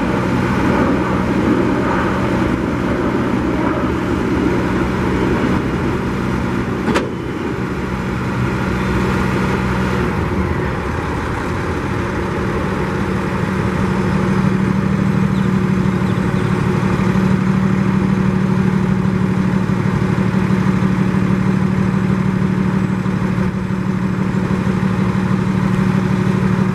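Diesel engine of a 2011 Freightliner M2 truck running steadily, with one sharp click about seven seconds in. The engine note changes about ten seconds in and runs a little louder afterwards.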